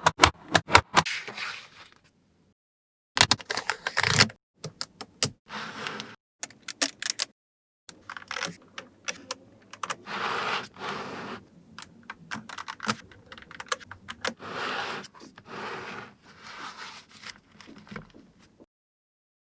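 Small magnetic balls clicking and snapping together, with longer stretches of rattling and scraping as the balls roll and slide against each other. The sound drops out to total silence a few times.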